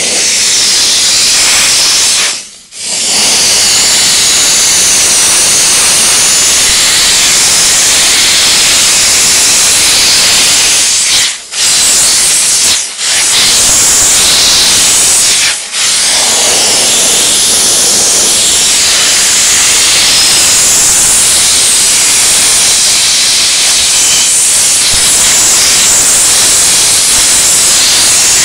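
Steam cleaner jet hissing steadily at full pressure, cutting out briefly four times.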